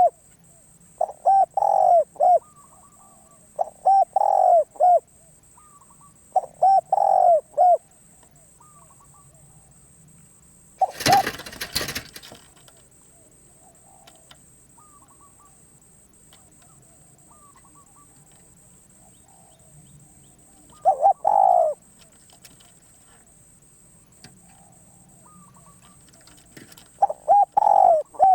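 Spotted dove cooing in short phrases of a few soft notes each. The phrases come about every two and a half seconds at first, then stop for a long gap before two more near the end. About eleven seconds in there is a brief rustling noise, and fainter bird calls sound in between.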